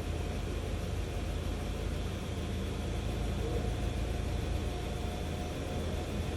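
Nissan Patrol engine idling steadily in neutral, with a faint steady whine over the low hum.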